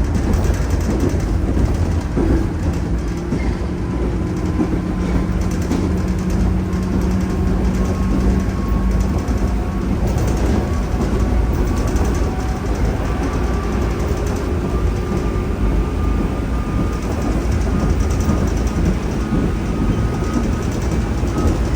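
Running noise inside the motor car of a 103 series EMU (KuMoHa 103-3509), heard as a steady, loud low rumble of the train at speed. A faint whine from the traction drive rises slowly in pitch over the second half.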